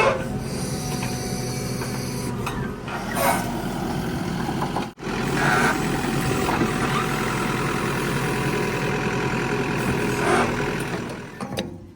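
Mahindra backhoe loader's diesel engine running steadily at working revs, with a few short bursts of louder noise and a brief break about five seconds in.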